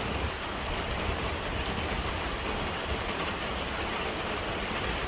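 Heavy downpour of rain, a steady hiss, with strong wind gusting against the microphone as an uneven low rumble.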